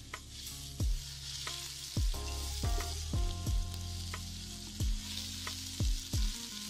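Chopped onions and ginger-garlic paste sizzling in hot oil in a non-stick pan as a spatula stirs them. A short low thud that falls in pitch comes about every second.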